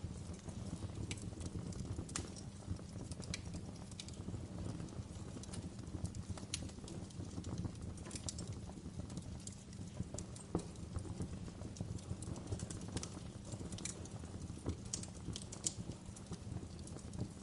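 Wood fire burning in a fireplace: a steady low rumble of flames with irregular sharp crackles and pops, some louder than others.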